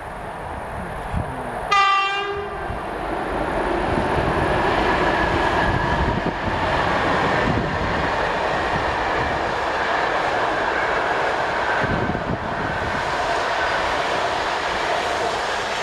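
A train horn gives one short blast about two seconds in. Then a locomotive-hauled passenger train runs across a steel railway bridge: a steady, loud rumble of wheels on rails, with occasional clacks as the coaches pass.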